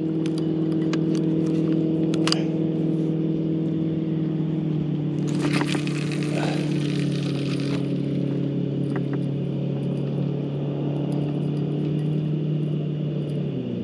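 A steady motor hum with a fixed pitch that dips slightly about four and a half seconds in and again near the end. About five seconds in, a rushing hiss lasts roughly two and a half seconds, with a few faint clicks scattered through.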